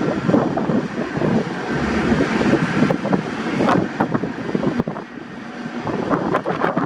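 Jet airliner engine noise mixed with wind buffeting the microphone in irregular gusts.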